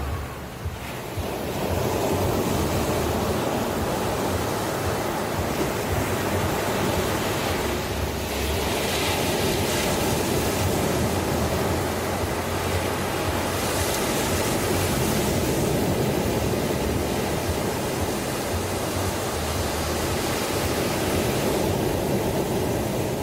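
Ocean waves washing onto the shore in a continuous rushing surf, with a brief lull about a second in and breaking swells adding hiss around a third of the way through and again past the middle.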